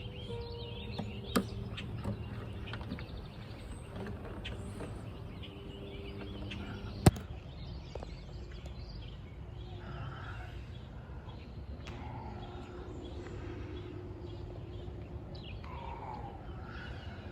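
Birds chirping over a steady low background hum, with a sharp click about seven seconds in and a smaller one a little over a second in.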